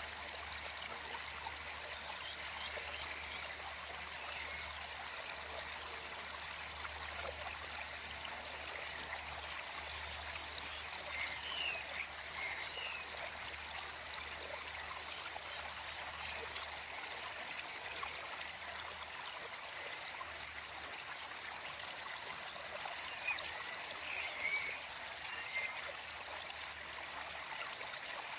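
Small forest stream flowing steadily. Short chirping animal calls come through in the background a few times.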